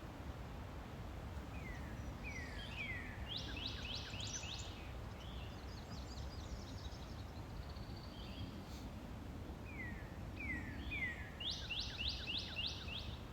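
A songbird sings the same short phrase twice, a few seconds apart. Each phrase is three falling slurred notes followed by a quick run of higher falling notes. A steady low background noise runs underneath.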